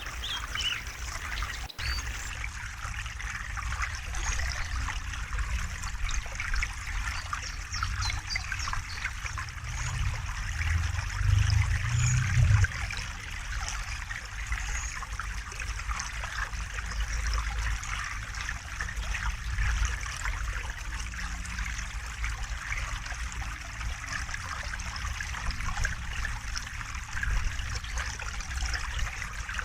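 Steady river water trickling and babbling, with a low rumble that swells louder about ten seconds in and falls away a couple of seconds later.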